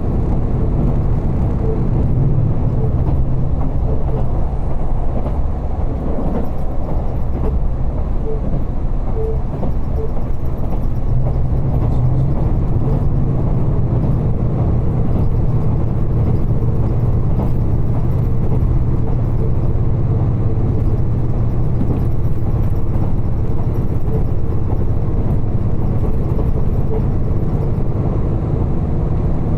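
Diesel railcar running along the line, heard from inside the passenger cabin: a steady low engine drone over the rumble of wheels on rail, the drone growing a little stronger about a third of the way in.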